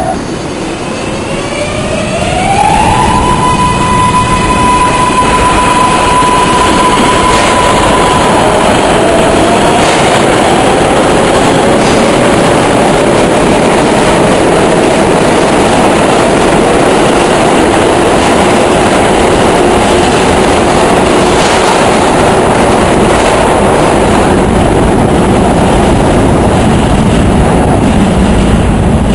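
R142A subway train pulling out, its propulsion giving a tone that rises over the first few seconds and then holds steady. Fainter shifting tones follow, over a loud, continuous rumble of wheels on rail.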